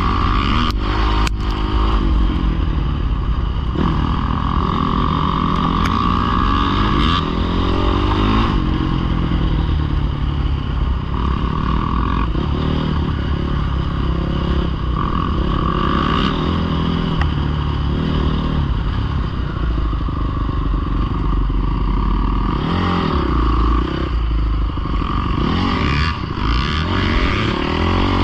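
Dirt bike engine running and revving up and down repeatedly, with a few sharp clatters in the first second or so.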